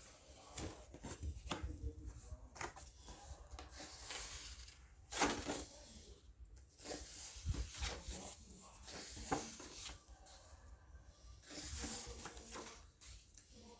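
Paper pages of a book being handled and turned: irregular short rustles and soft knocks.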